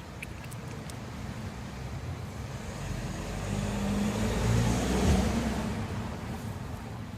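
A car passing by, its engine and tyre noise building to a peak about five seconds in and then fading away.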